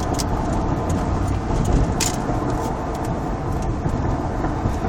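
Steady drone of a 2002 Ford Lightning pickup heard from inside the cab while driving: its supercharged 5.4-litre V8 and road noise, holding an even pitch. A brief click about two seconds in.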